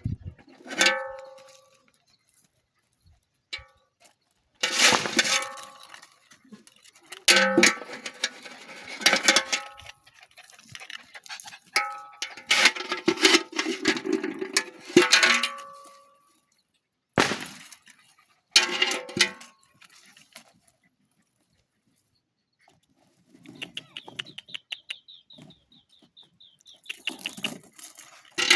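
A dog and a fox calling at each other in a series of harsh, high yelping and screeching bursts, each a second or two long, with a pause near the end followed by a high, steady trill.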